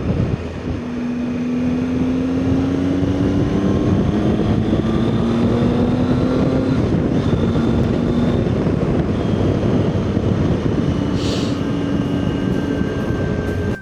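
Motorcycle engine running under way, its pitch climbing slowly several times as it pulls through the gears, with wind rushing over the microphone.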